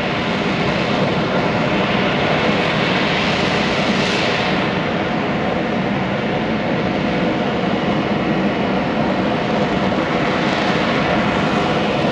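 Jet engine roar of an F-35B Lightning II's single F135 turbofan, loud and steady, its high hiss swelling about four seconds in and again near the end as the jet's angle to the listener changes.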